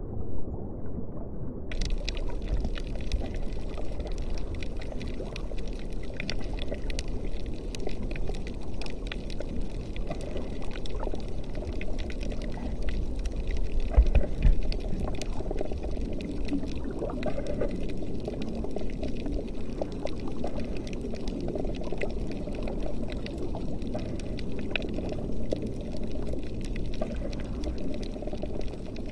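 Underwater sound on a coral reef: a steady, muffled rush of moving water with a fine crackle of clicks over it, and a louder low bump about halfway through.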